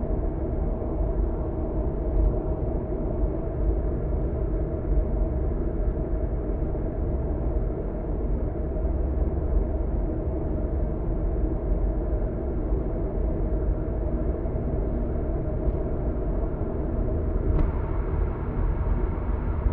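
Steady road and engine drone of a car cruising on an expressway, heard from inside the cabin, with one brief click about seventeen seconds in.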